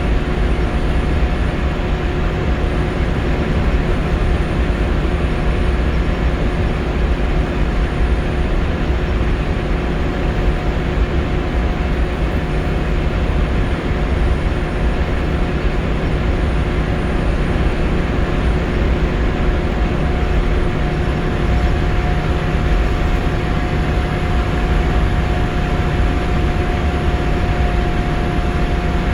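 Scania L94UB Wright Solar single-deck bus heard from inside while cruising at a steady speed: a constant engine and road rumble with a steady whine over it.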